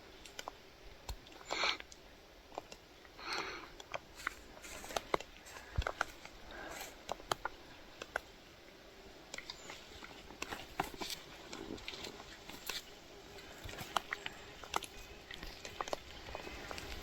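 Faint scattered clicks and rustles close to the microphone, with two short breathy sounds in the first few seconds.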